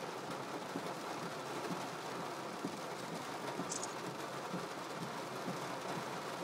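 Heavy rain pelting a car's roof and windshield, heard from inside the car as a steady, dense patter.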